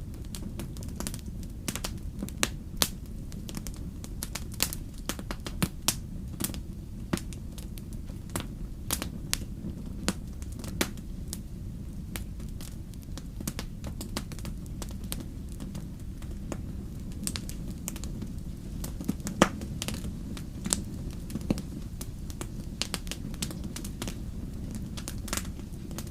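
Wood campfire crackling, with irregular sharp pops several times a second over a steady low rumble; one pop about two-thirds of the way through is the loudest.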